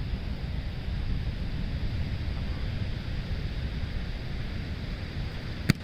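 Wind buffeting the microphone: a steady low rumble. About five and a half seconds in there is one sharp knock.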